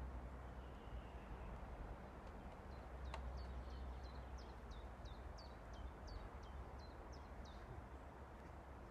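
A small bird calling a run of short, quick notes that each fall in pitch, about two a second for several seconds, over a steady low rumble. A single sharp knock sounds about three seconds in.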